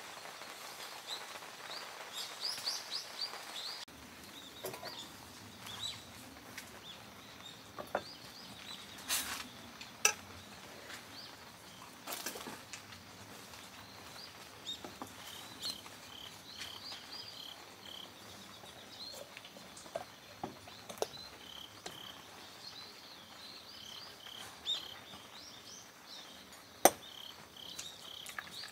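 Wild birds chirping over a faint steady outdoor hiss, with a short call repeated again and again through the second half. A few sharp clicks or taps stand out; the loudest comes near the end.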